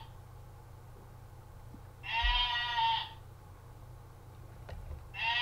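Recorded sheep bleat played from a toy animal-sounds button: one wavering bleat of about a second roughly two seconds in, and another starting near the end.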